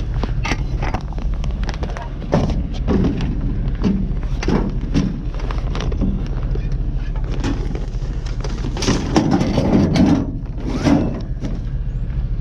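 Repeated knocks and clanks of scrap items being handled, louder and busier near the end, over a vehicle engine idling steadily.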